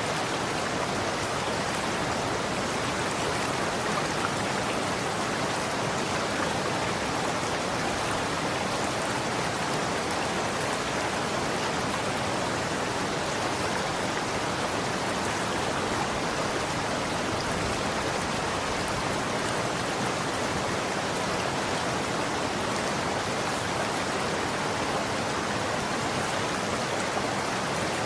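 Running water flowing in a steady, even rush that does not change.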